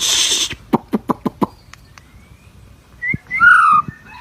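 Bird calls: a harsh hissing rasp, a quick run of short sharp chips, then loud whistled notes that slide down in pitch near the end.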